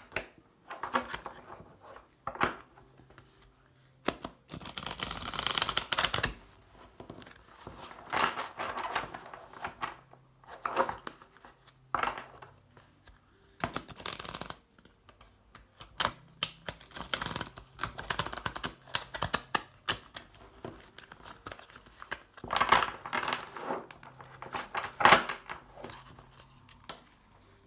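A tarot deck being shuffled by hand: irregular bursts of cards rustling and slapping together, with one longer riffling rustle about four seconds in.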